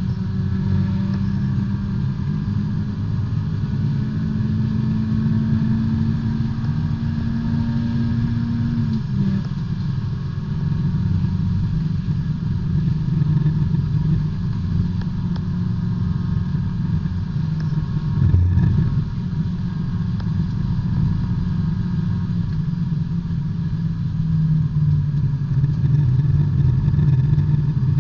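B-Spec race car's engine heard from inside the cockpit, running at fairly low, steady revs. Its pitch holds and creeps up slowly, drops about a third of the way in, then wavers at lower revs. A single knock comes a little past the middle.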